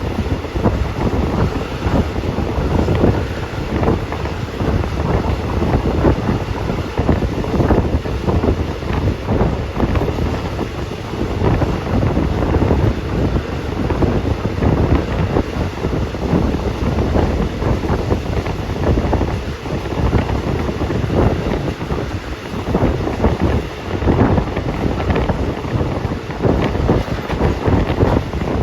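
Wind buffeting the phone's microphone: a steady rushing noise, heaviest in the low end, with rapid irregular flutter.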